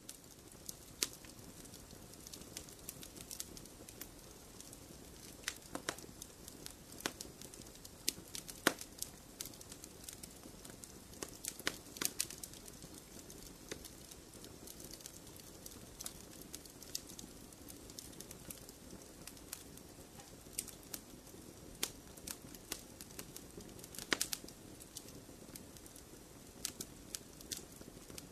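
Wood logs burning in a fireplace, crackling with irregular sharp pops over a soft steady hiss; a few pops stand out louder than the rest.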